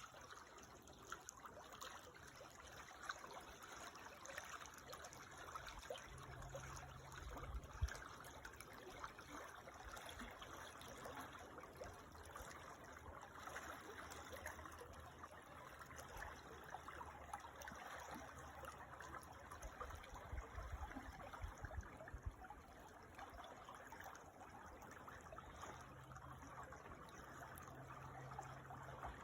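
A creek trickling steadily, heard faintly. A few low rumbles come through, with a brief thump about eight seconds in.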